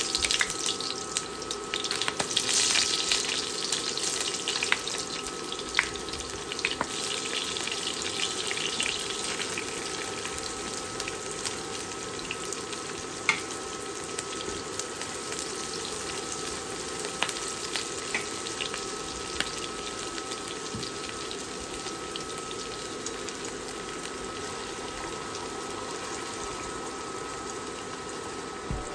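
Sliced onion, then garlic, frying in hot oil in a nonstick wok: a loud sizzle as the onion goes in, settling to a steady sizzle with occasional light clicks.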